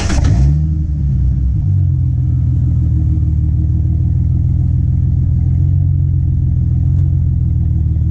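Ford Mustang's 4.0-litre V6 catching on a warm start, flaring up briefly about half a second in and then settling into a steady idle, heard from behind the tailpipe.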